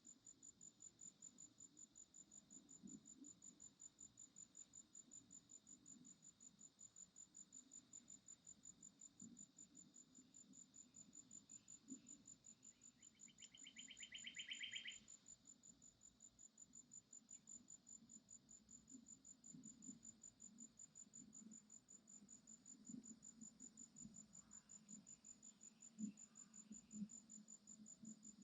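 Faint insect chirping in the forest: one high-pitched note repeated in fast, even pulses without a break. About halfway a short buzzy call sounds for a second or two.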